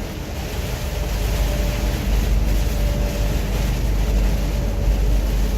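Steady in-cab noise of a heavy truck driving on a wet highway: a low engine and road rumble under an even hiss of rain and tyre spray, with a faint steady whine in the middle.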